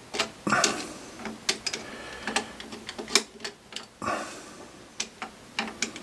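Irregular metallic clicks and clunks of hand work at a metal lathe, about a dozen sharp knocks spread unevenly with no motor running.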